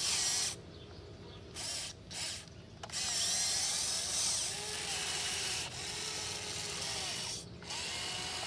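1580 RC excavator's electric motors and gears whining as the arm and bucket dig, the pitch sliding up and down. The sound cuts out briefly a few times as the controls are let go.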